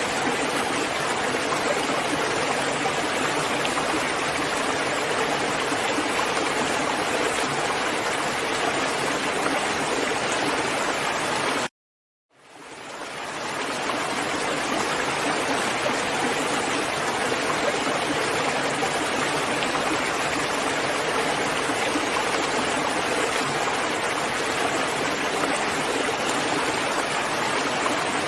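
Steady rain falling, an even rushing hiss of water. About twelve seconds in it cuts out abruptly to silence for under a second, then fades back in, like a splice in a looped recording.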